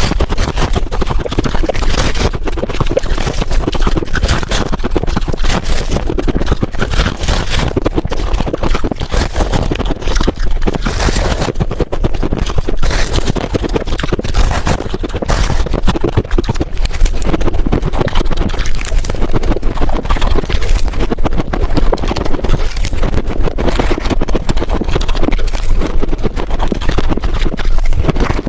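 Ice being bitten and chewed close to the microphone: a loud, dense run of crunches with no break.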